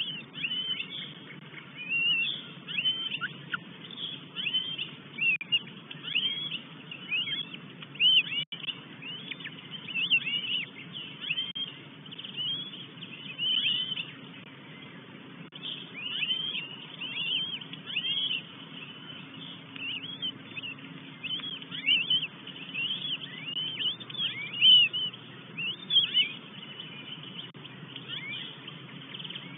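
Birds calling: a run of short, high, arching calls, several a second, repeated in bursts with brief pauses, over a steady low background hum.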